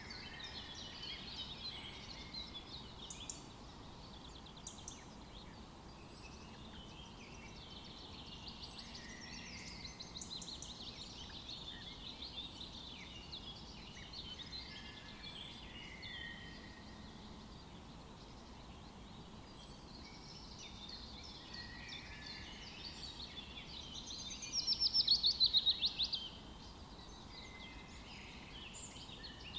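Several small birds chirping and twittering over one another, with a louder, fast trill near the end.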